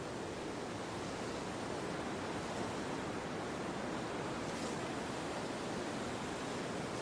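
Steady wind noise: an even, unbroken rushing hiss that neither gusts nor changes.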